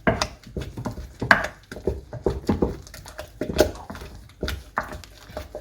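A spoon knocking and scraping against a bowl as thick maize-meal porridge (sadza) is stirred, in irregular clicks and knocks several times a second.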